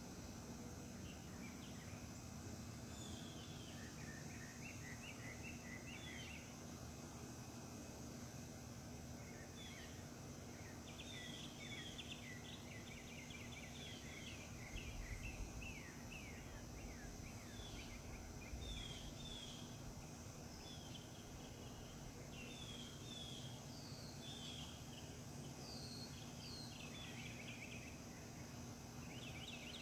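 Backyard birds chirping in many short, repeated notes, over a steady high hiss and a low steady hum; two brief low rumbles come near the middle.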